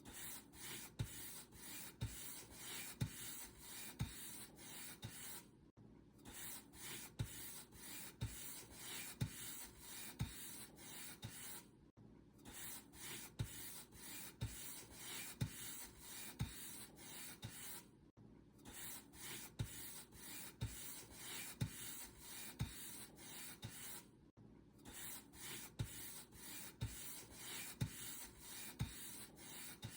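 Paint brush strokes: a bristle brush rubbing back and forth over a surface, with strokes about once a second and a brief pause about every six seconds.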